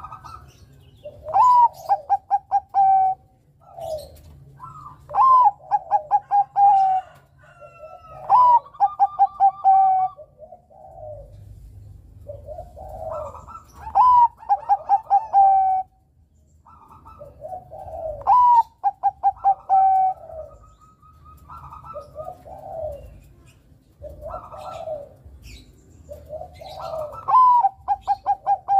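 Zebra dove (perkutut, Bangkok type) singing its cooing song. Each phrase opens with a rising note and runs into a fast series of short clipped coos. About six such phrases come every three to four seconds, with softer low coos in between.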